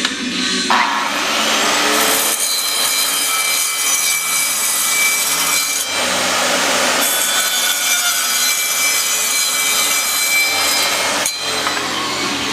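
A power tool cutting into steel flat stock, a steady grinding rasp with a high metallic ring, notching out a small weld tab. It starts about a second in and cuts off near the end.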